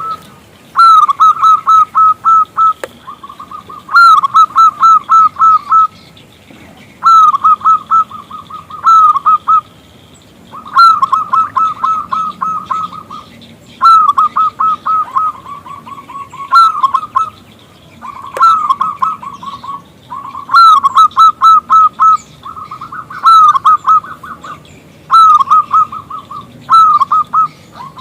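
Zebra dove (perkutut) cooing: a series of quick, pulsing coo phrases, each a second or two long, repeated with short pauses between them.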